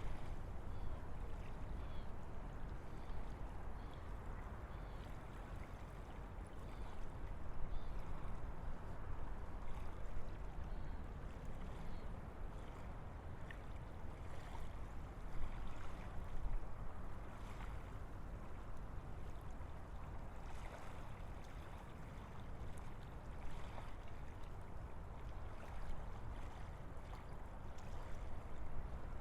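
Steady wind blowing through forest trees, a continuous rushing with a low rumble that swells gently in a few soft gusts.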